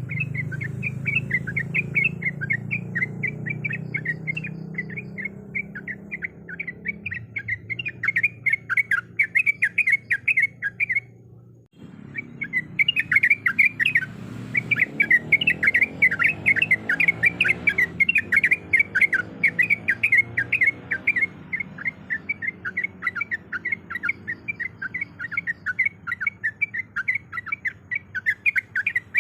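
Yellow-vented bulbul (trucuk) singing a rapid, continuous chatter of short bubbly notes, broken off by a brief silence about twelve seconds in. A faint low rumble lies underneath.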